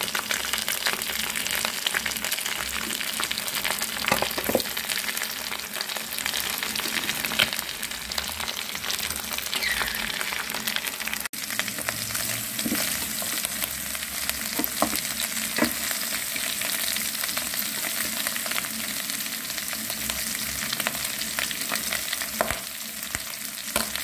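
Chicken pieces and chopped red onions sizzling and crackling as they fry in oil in a metal cooking pot, with a utensil stirring through them.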